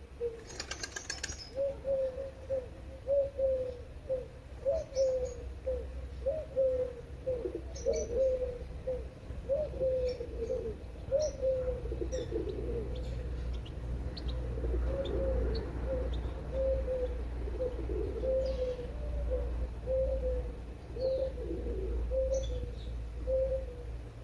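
Birds calling: a long run of short low notes, about two a second, with a few faint high chirps and a steady low hum underneath.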